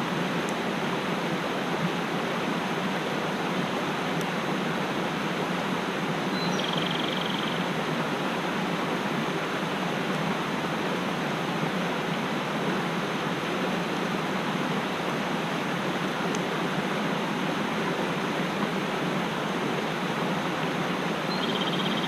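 Mountain stream rushing steadily. A short, high bird call comes about seven seconds in and again near the end.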